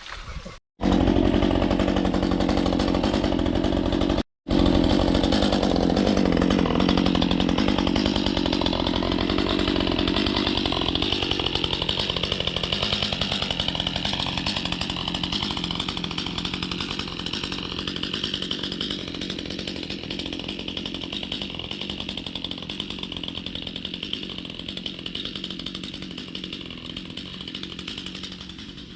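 Chainsaw running hard, likely cutting into a dead, lightning-killed tree. The sound drops out twice in the first few seconds, then slowly eases in loudness and pitch.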